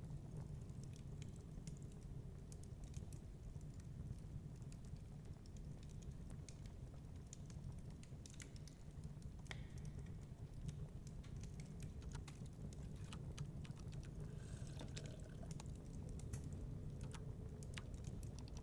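Wood fire in a fireplace crackling, with irregular sharp pops and ticks over a steady low rumble.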